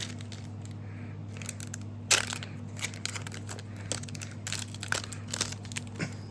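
Foil trading-card booster pack wrapper crinkling and tearing as it is opened, in irregular sharp crackles, the loudest about two seconds in, over a steady low hum.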